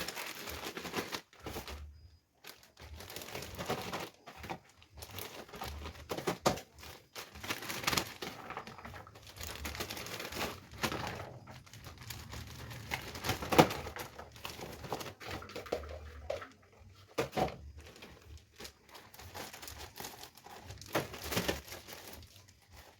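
Plastic bags crinkling and rustling in irregular bursts as vegetables are handled and packed into them, with a few sharper crackles.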